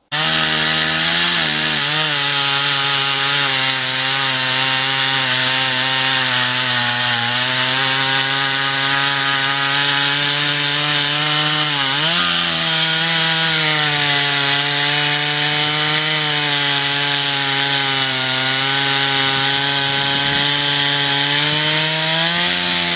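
Stihl 056 Super chainsaw, an 87 cc two-stroke with the factory dual-port muffler, running hard at high, steady revs. The pitch sags briefly a couple of times, most clearly about halfway through, and then picks back up.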